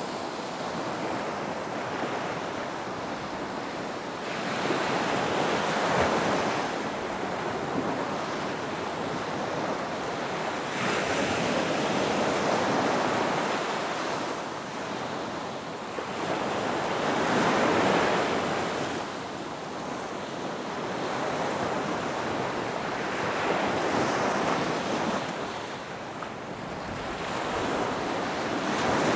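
Ocean surf breaking on a beach, the waves swelling and washing back in a slow rhythm, one about every five to six seconds.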